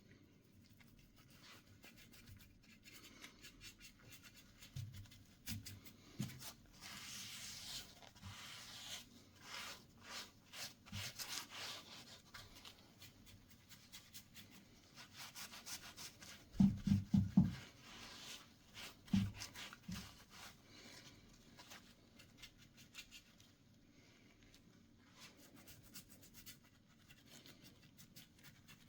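Irregular rubbing and scratching strokes on a wooden picture frame during restoration work. A little past the middle comes a quick cluster of dull knocks, with another knock or two shortly after.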